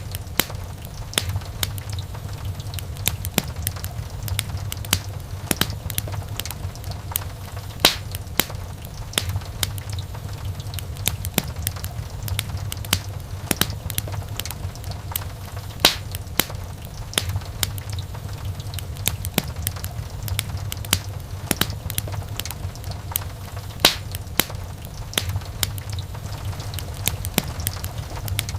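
Wood fire burning in a fireplace: a steady low rumble of flames with frequent sharp, irregular crackles and pops from the burning logs, a few louder pops standing out.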